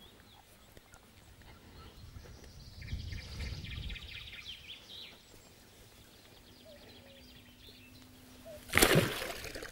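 Small birds chirping and trilling, with a brief loud rustle or knock near the end.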